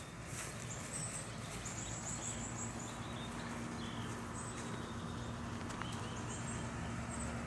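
Small birds chirping outdoors: short, high calls repeated in quick runs. A steady low hum runs underneath.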